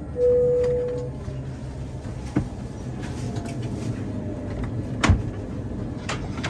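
A single chime from the Boeing 787-9's cabin PA sounds once, a steady tone just under a second long, over the steady hum of the aircraft cabin. A few sharp knocks and clicks follow, like overhead bins and fittings being handled.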